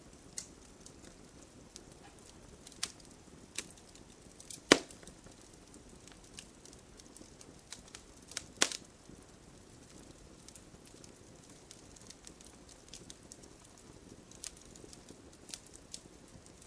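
Wood fire crackling in a fireplace: scattered sharp pops and snaps over a soft low hiss. The loudest pops come about five seconds in and again just past halfway.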